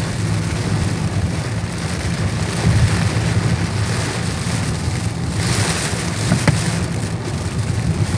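Heavy rain pouring steadily over a constant low rumble during a thunderstorm. The rain swells louder for about a second around the middle, and there is a single sharp tick shortly after.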